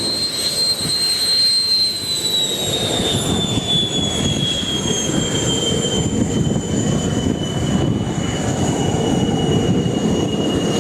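Aircraft turbine engine running with a high whine that slowly falls in pitch, over a steady low rumble.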